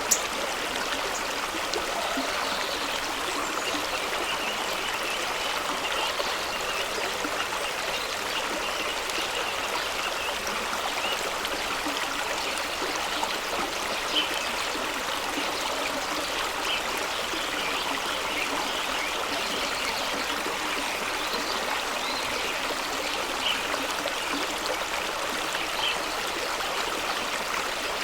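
Fast-running stream rushing and splashing over rocks in a steady wash of water noise, with a few small drops and splashes standing out now and then.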